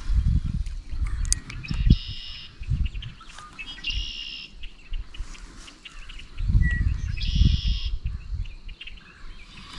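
A bird calling three times: a short, buzzy, high call about every two and a half seconds. Under it is low rumbling on the microphone.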